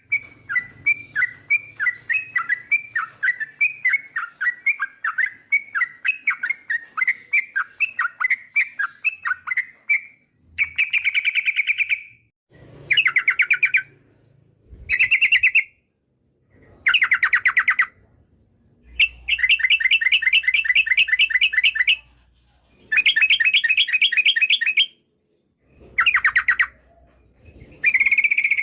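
Yellow-vented bulbul (trucukan) singing: about ten seconds of quick, repeated chirping notes, then a string of short, fast chattering phrases of a second or two each, with brief gaps between them.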